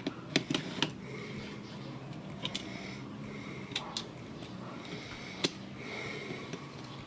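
Light metallic clicks and taps of motorcycle engine parts being handled and fitted, a few spaced irregularly over a faint steady hum.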